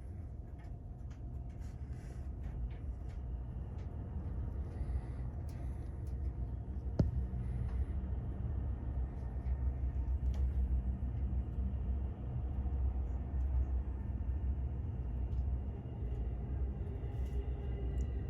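Low, steady rumble inside a limited express Thunderbird train car, slowly growing louder, with one sharp click about seven seconds in.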